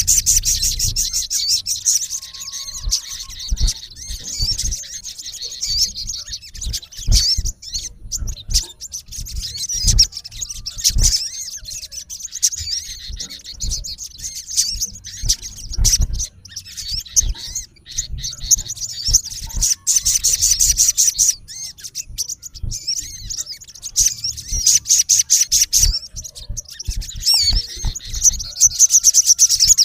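Male olive-backed sunbird calling hard at a rival: bouts of rapid, high, harsh notes run together into fast trills, coming several times with short breaks between, over scattered low thumps.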